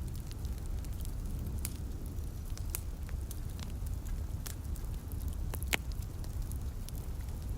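Wood fire crackling, with scattered sharp pops and one louder pop near the end, over a steady low rumble.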